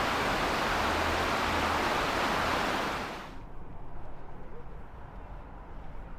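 Steady rush of falling or splashing water, which fades out quickly about three seconds in, leaving quiet outdoor ambience.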